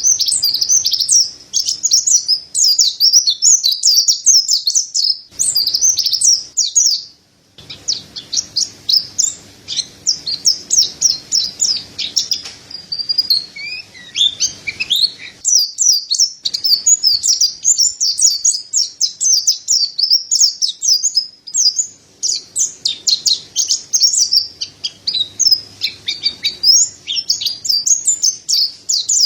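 Mountain white-eye (white-breasted white-eye) singing: a rapid, continuous run of high twittering chirps and trills, broken briefly about seven seconds in.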